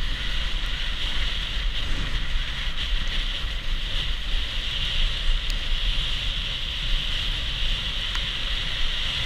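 Wind rushing over the microphone of a camera moving fast downhill on snow, with a steady high hiss and low rumble throughout.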